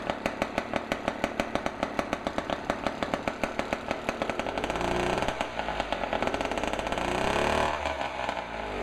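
Small two-stroke outboard motor, a 3 HP Gamefisher, running with a steady, regular beat. About halfway in it revs up, then drops back toward the end. It is running on its newly fitted fuel shutoff valve and fuel filter.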